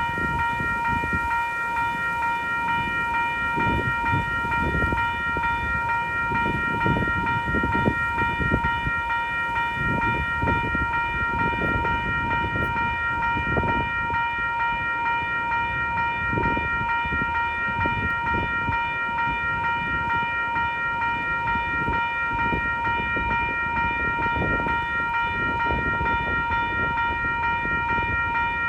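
Gusty wind buffeting the microphone, rumbling irregularly, over a steady high-pitched tone with a stack of overtones that holds one pitch.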